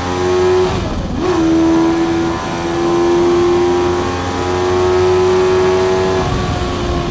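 Honda CBR600F PC41 inline-four through a Mivv aftermarket exhaust, running at high revs flat out down a straight. About a second in, the pitch dips and climbs straight back up at a quick gear change. Near the end the pitch starts to fall as the revs come down.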